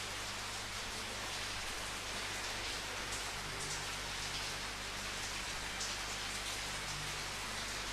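Steady rain falling, an even hiss with the odd louder drop standing out.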